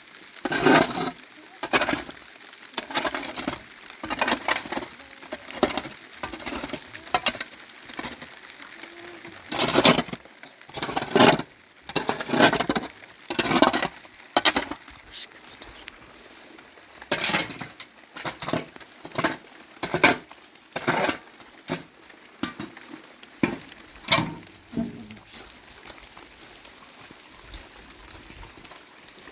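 A series of irregular sharp strikes or crunches, roughly one or two a second, which stop a few seconds before the end.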